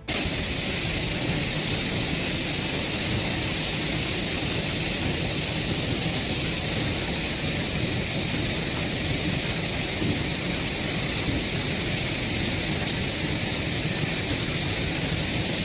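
Torrential rain pouring down, a dense, unbroken hiss.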